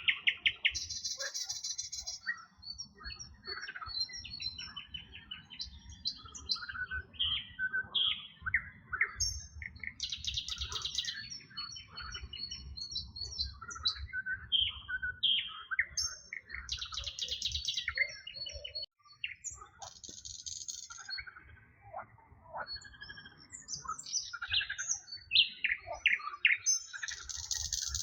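Several songbirds singing at once, a mix of short chirps and whistled notes, with a dense buzzy trill that comes back every several seconds. A low rumble lies underneath.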